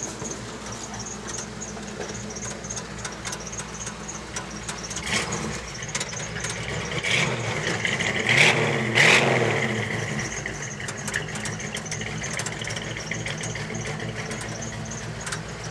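Custom truck's engine idling through small mufflers and exhaust stacks, revved up about halfway through with two sharp blips of the throttle, then settling back to idle. A faint high chirp repeats about twice a second over it, which the owner puts down to a belt tensioner that needs spraying.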